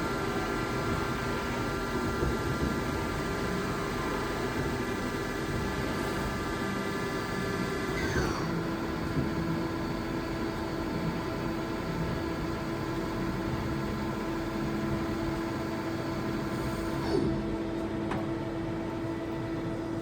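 TRAUB TNA300 CNC turning and milling center running: a steady machine hum with a whine of several high tones. The whine glides down and stops about eight seconds in, leaving the steady lower hum.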